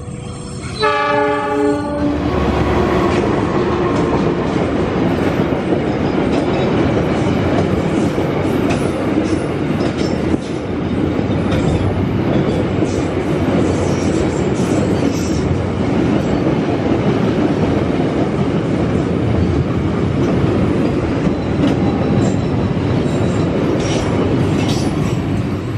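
Diesel locomotive's horn sounds once, briefly, about a second in. Then a long freight train of fuel tank wagons passes close by with a steady rumble and wheels clicking over the rail joints.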